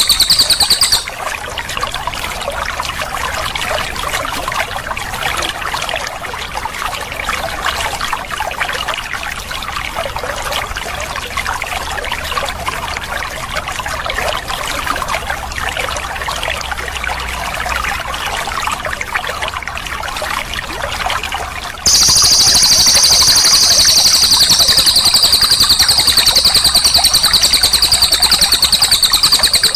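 Steady trickle of running water. A cililin's loud, rapid, continuous trilling song plays over it for the first second and again through the last eight seconds.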